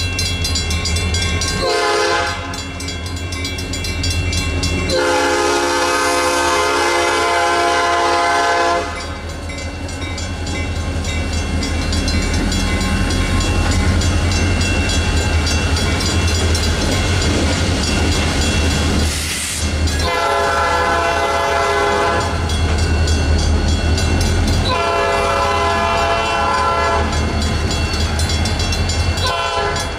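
EMD SD40-2 diesel locomotives running light over a grade crossing: a steady low engine rumble with wheels clacking over the rails, and the crossing's mechanical bells ringing. The locomotive horn blows a short blast about two seconds in, a long blast from about five to nine seconds, and two more long blasts in the second half.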